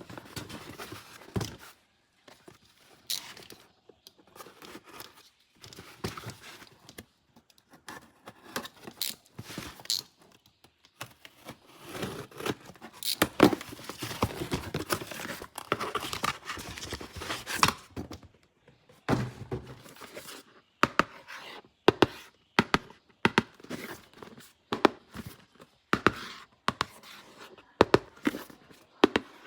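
Hands unboxing and handling plastic toys: a run of sharp clicks, taps and knocks, with a longer stretch of rustling and tearing of packaging in the middle.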